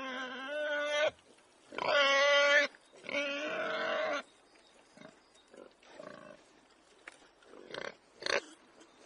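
An animal calling: three long, drawn-out cries one after another, the middle one loudest, followed by a few faint short sounds and a sharp click near the end.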